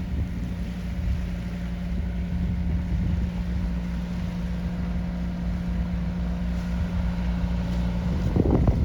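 A sailboat's diesel engine running steadily under way, a constant low hum and rumble. Near the end, wind buffeting the microphone takes over.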